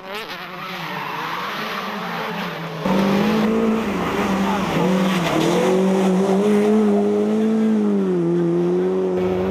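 Rally car engines running hard at high revs. About three seconds in the sound cuts to a louder, closer car whose engine note dips briefly around five seconds, then holds high and steady.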